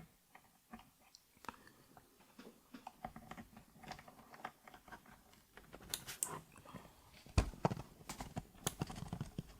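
Hot-swap mechanical keyboard switches being worked out of their sockets with a switch puller: scattered small plastic clicks and scrapes, busier in the last few seconds, with a couple of sharper snaps.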